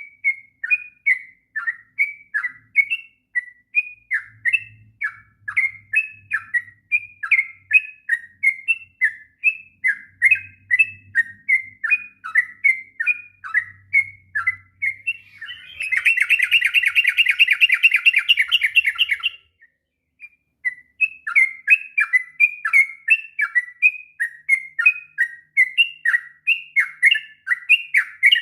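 Yellow-vented bulbul (trucuk) singing a long run of short chirping notes, about three a second. About sixteen seconds in, it breaks into a fast, dense trill for about three seconds, falls silent for about a second, then resumes its chirping song.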